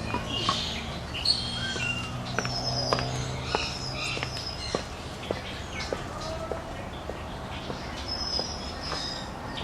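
Small animals chirping: many short, high-pitched chirps and peeps, several gliding in pitch, with scattered light clicks.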